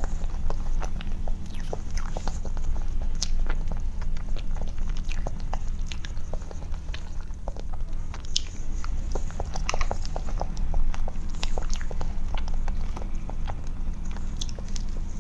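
Chewing and wet mouth sounds of someone eating soft chocolate-coated cream cake, with many small irregular clicks, over a steady low hum.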